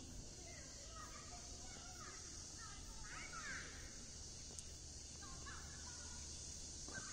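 Faint outdoor ambience: birds give short calls a few times, the clearest a quick sweeping call about three seconds in, over a steady high hiss and a low rumble.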